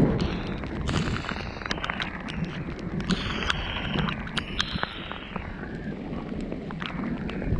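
Rain falling, with many sharp drop taps close to the microphone over a low rumble of wind on the microphone.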